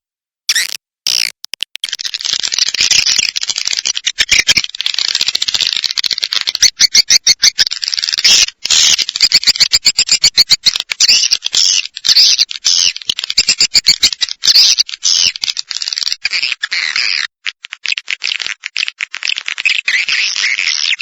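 Swiftlet calling track: a fast, rattling chatter of high swiftlet chirps and buzzes, a few separate bursts at first and then dense and continuous from about two seconds in. It is a lure sound played to attract swiftlets to a nesting house.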